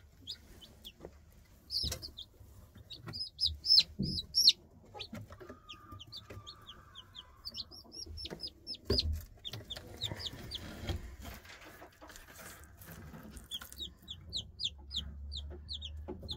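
Newly hatched chicks peeping: runs of short, high, downward-sliding chirps, several a second, with a few light knocks and rustles among them.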